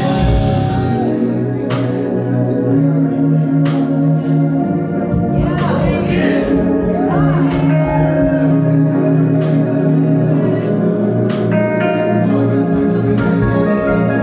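A live band playing slow, sustained chords on keyboards over bass, with a few sharp drum or cymbal hits and a wavering melodic line through the middle.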